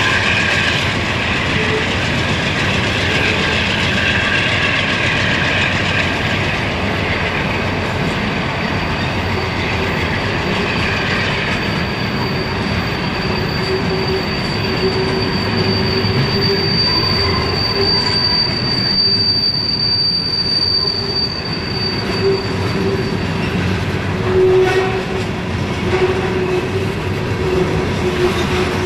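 Norfolk Southern freight train's open-top hopper and gondola cars rolling past with a steady wheel-on-rail squeal. A high, thin screech joins about nine seconds in and stops about two-thirds of the way through, and a few clacks come near the end.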